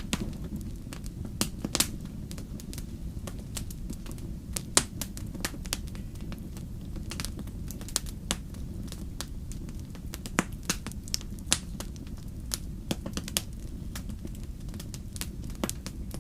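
Wood fire crackling: irregular sharp pops and snaps over a steady low rumble, with a few louder pops scattered through, the sharpest about five seconds in.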